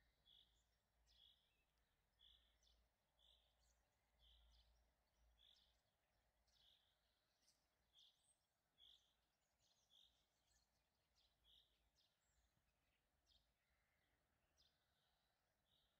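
Faint outdoor birdsong: one bird repeats a short high note about once a second, with other faint chirps around it.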